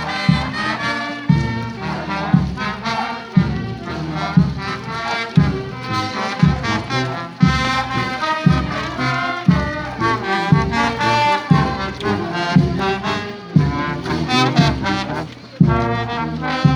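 Brass band playing, trombones and trumpets over a bass drum that beats about once a second.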